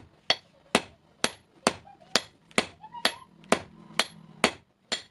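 Steady hand-hammer blows on steel on an anvil, forging a hasua blade: about two strikes a second, each a sharp metallic clink with a short high ring.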